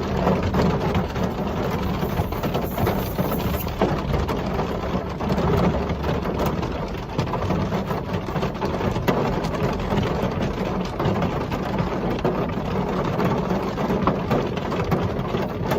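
Steady rain falling: a dense hiss of drops with many small separate drop ticks and a low rumble underneath.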